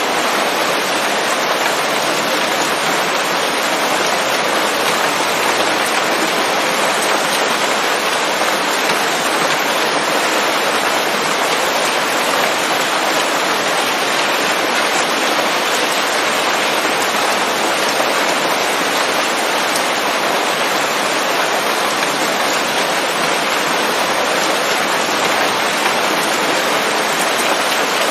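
Steady rain falling on forest leaves, a dense, even hiss with no thunder.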